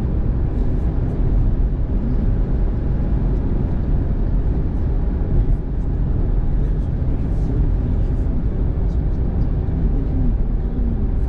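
Steady road noise of a car driving in the rain, heard from inside the cabin: a constant low rumble of tyres and engine on a wet road.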